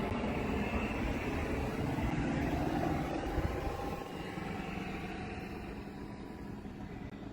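A motor vehicle running with engine and road noise, its pitch rising a little about two to three seconds in, then easing quieter with a steady low hum from about four seconds in.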